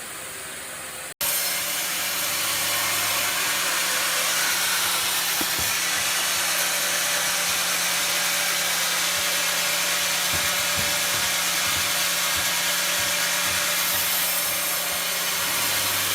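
Sawmill saw cutting through timber, a loud steady noise over a constant low hum. About a second in, a quieter hiss cuts off abruptly and the sawing starts at full level.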